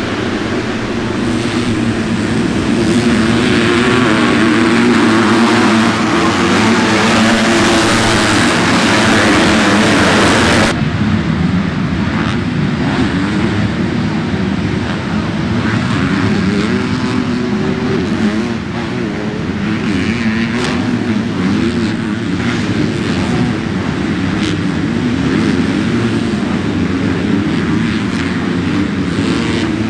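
Motocross bike engines racing, revving up and down as the bikes go round the track. The sound changes abruptly about ten seconds in, losing much of its hiss.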